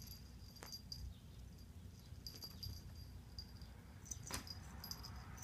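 Kittens playing on the floor, faint: scattered light taps and clicks with short high chirps, and a sharper knock about four seconds in.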